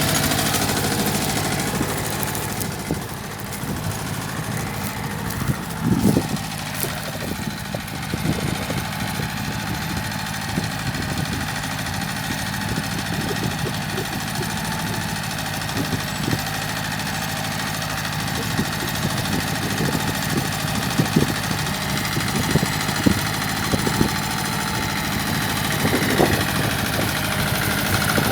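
Mitsubishi compact tractor engine running steadily while pulling a plough, with scattered clunks and rattles, the clearest about 6 seconds in and several more near the end.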